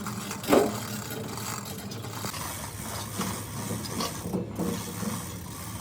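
Workshop hand work: scraping and rubbing, with irregular knocks, the loudest about half a second in.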